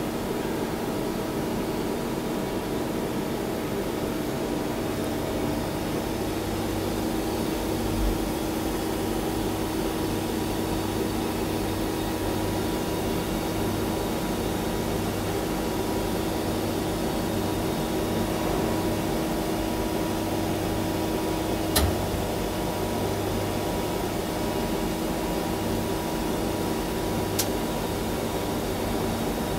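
A lathe running with a steady mechanical hum and several steady tones. A low, pulsing hum sets in about five seconds in. There is a dull thump, then two sharp clicks near the end.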